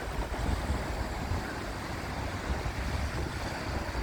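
Steady rain and wind noise outdoors, with an uneven low rumble of wind buffeting the phone's microphone.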